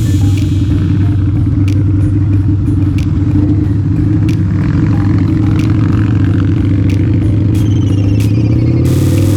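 Harley-Davidson V-Rod's V-twin engine running steadily under way, with the drone of the moving bike and a few sharp clicks; the engine note rises slightly near the end.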